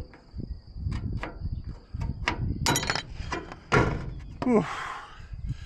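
Irregular knocks, taps and crinkling of metal ridge flashing being handled and pushed into place on the roof, with a short falling squeak about four seconds in.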